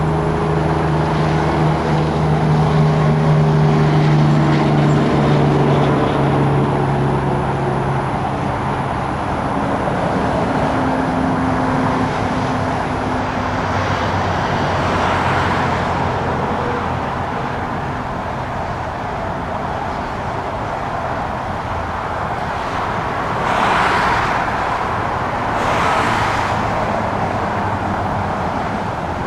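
Steady engine noise with a rushing haze and a humming engine tone that fades out over the first several seconds. Two brief swells of rushing noise come about 24 and 26 seconds in.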